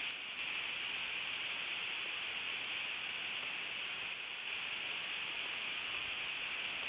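Steady, even hiss with no pitch, with a few faint ticks shortly after the start and again about four seconds in.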